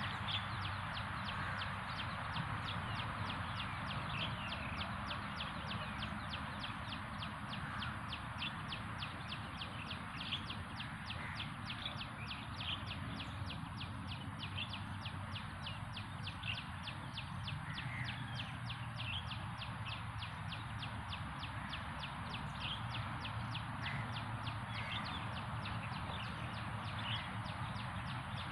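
Outdoor ambience: a high, even chirping repeating about three times a second, with scattered bird chirps over a steady background noise.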